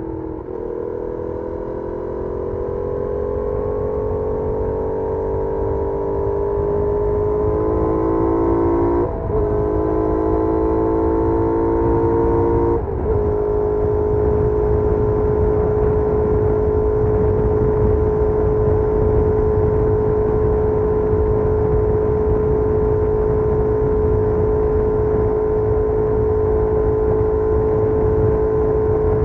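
Benelli Leoncino 800's parallel-twin engine through its stock exhaust, heard onboard while riding. It pulls steadily, shifts up twice, at about nine and thirteen seconds in, then holds a steady cruising speed, with a low rush of wind and road noise underneath.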